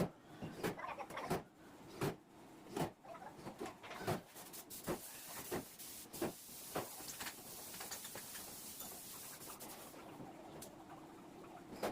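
Hammer blows on wood at a steady pace, about three every two seconds, stopping about seven seconds in. A steady hiss follows, with one more knock near the end.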